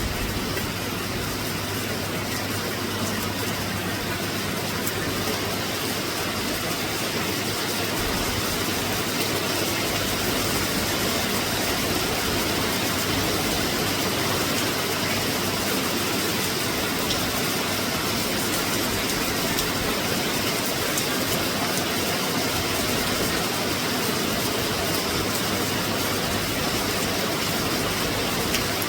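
Steady rain falling on the sea, an even hiss, under a constant low hum.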